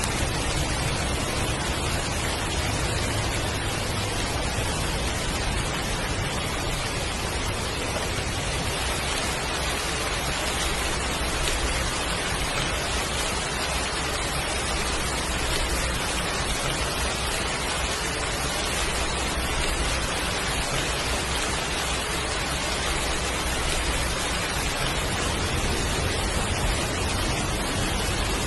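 Heavy, steady downpour of rain, a dense even hiss with a low rumble underneath.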